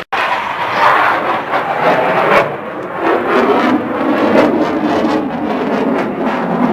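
Loud aircraft noise, a dense rushing roar that rises and falls a little, starting abruptly after a cut.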